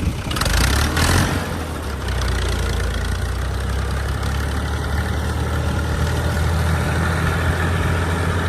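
Fiat 480 tractor's diesel engine running steadily at low revs, with a brief louder burst of noise about a second in.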